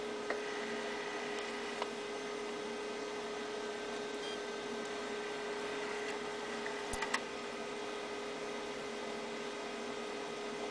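Steady electrical hum with an even hiss, broken by a few small clicks, the loudest group about seven seconds in.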